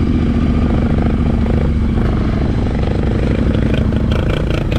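Yamaha Ténéré 700's parallel-twin engine running at a steady speed off-road, holding one even note, with a few light clicks and knocks near the end.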